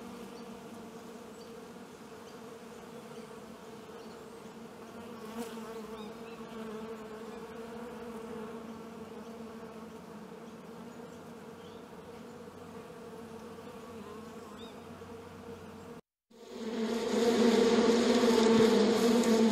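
Honeybees buzzing: a steady, even hum of many bees in flight. It breaks off briefly about sixteen seconds in, then comes back much louder and denser, the buzz of a crowd of bees swarming over an opened hive.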